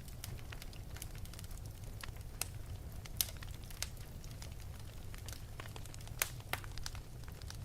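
Wood fire burning in an open fireplace: a steady low rumble of flame with irregular sharp crackles and pops, two louder pops about three and six seconds in.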